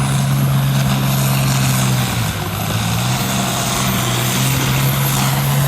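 A large engine running steadily at idle, with a faint high-pitched whine above it; the engine's pitch dips briefly about two seconds in.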